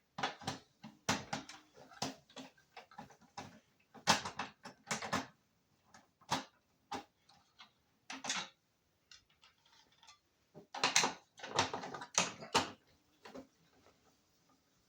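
Irregular clicks, taps and light clatter of small plastic and metal parts of a truck speedometer and instrument cluster being handled and worked on. The sharpest knocks come about four seconds in, and there is a dense run of clattering past the ten-second mark.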